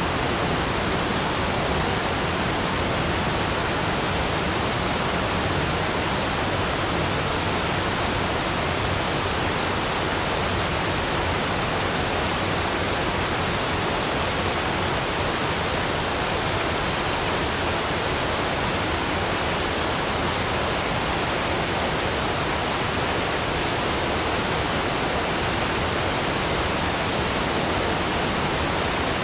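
Cascading waterfalls giving a steady, even rush of falling water with no breaks or changes.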